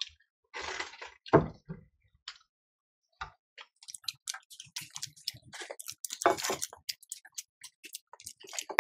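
Close-miked chewing and lip-smacking as fried fish and rice are eaten by hand: a few soft bursts at first, a short pause, then a quick run of wet mouth clicks, busiest about six seconds in.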